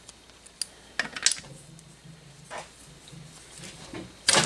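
A few scattered light clicks and knocks of hand tools being handled, with a faint steady low hum through the middle and a sharper knock near the end.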